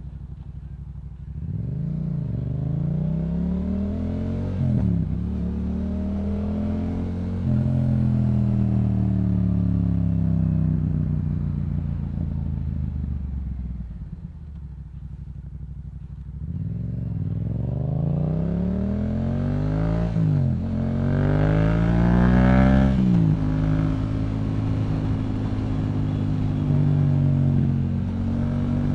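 Yamaha MT-07's parallel-twin engine through a Yoshimura exhaust, accelerating with two upshifts early on. It then winds down as the bike slows, pulls hard again through two more upshifts about two thirds of the way in, and settles to steady cruising near the end.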